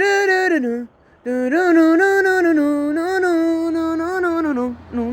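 A high voice singing a wordless melody, holding notes that step up and down. It breaks off briefly about a second in, and settles on a lower held note near the end.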